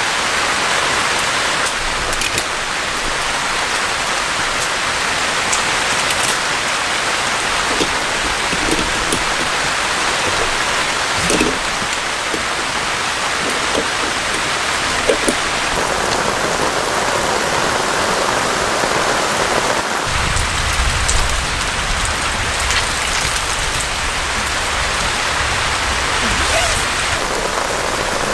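Heavy rain falling steadily, with individual drops ticking sharply here and there. About two-thirds of the way through, a low rumble comes in under the rain for several seconds.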